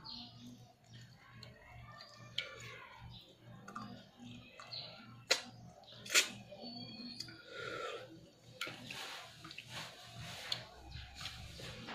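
Close-up mouth sounds of eating rice and curry by hand: chewing with wet lip smacks and scattered sharp clicks, over a faint low hum.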